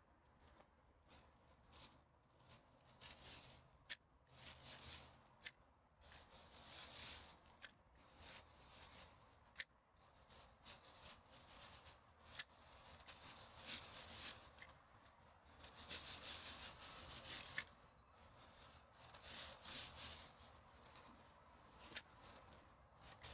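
Irregular rustling and crinkling of litter being handled and picked up, with scattered sharp clicks and snaps.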